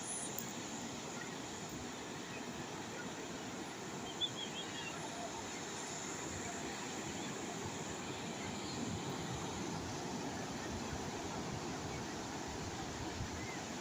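Calm sea waves as a steady, even wash of noise, with a few brief high chirps about four seconds in.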